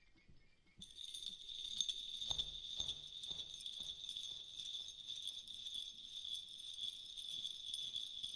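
Small bells jingling continuously, coming in about a second in, with a few faint low knocks beneath.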